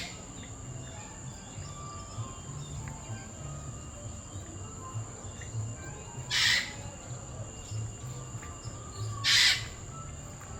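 Caged birds calling in an aviary: faint chirps scattered throughout, with two loud harsh screeches, about six and a half and nine and a half seconds in.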